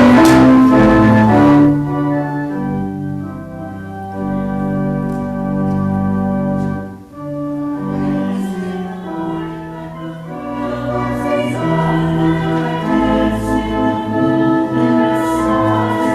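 Church organ playing a hymn in held chords, loud for the first two seconds or so and then softer.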